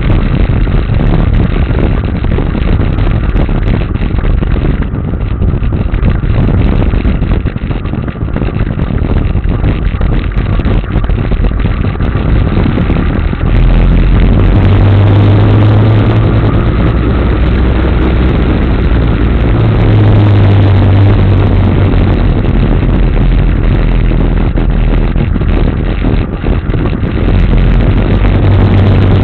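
Motorcycle under way: engine running beneath heavy rushing noise, and from about halfway through a steady low engine hum comes up louder.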